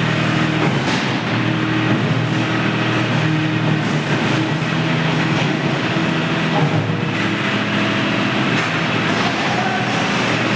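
Tractor engine running steadily, with a constant low hum under a broad mechanical clatter.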